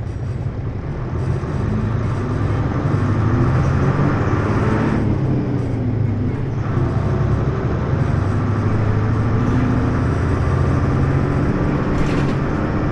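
Hino U-HT2MLAA city bus heard from on board, its diesel engine running under way with a strong low hum that gets louder over the first couple of seconds, plus a brief sharp sound near the end. The bus's running sound is described as tending toward abnormal noise.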